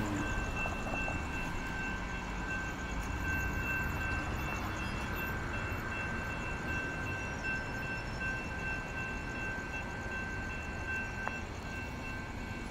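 Railroad grade crossing warning bell sounding with a steady high tone as the crossing signals activate for an approaching train, over a steady low rumble of road traffic.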